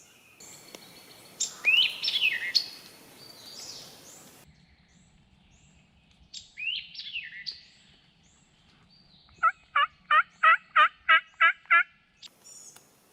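Wild turkey calling at close range: two loud calls that fall in pitch early and midway, then a rhythmic run of about nine yelps, about four a second, near the end. Small birds chirp faintly in the background.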